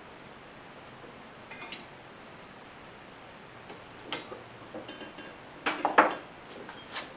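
Metal tools and parts clinking and clanking as they are handled: a few light clinks, then a louder cluster of clanks about six seconds in.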